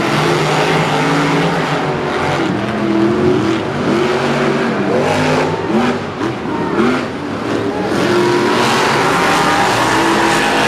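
Monster truck engines revving hard during a race, their pitch rising and falling again and again, over a steady wash of stadium noise.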